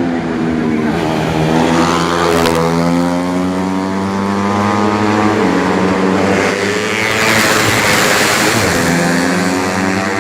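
Several racing 125 cc four-stroke underbone motorcycles revving hard as they pass, engine pitch rising and falling, with more than one engine heard at once.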